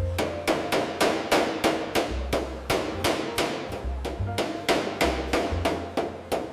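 Hammer striking metal in a steady, even rhythm of about three blows a second, each blow ringing briefly.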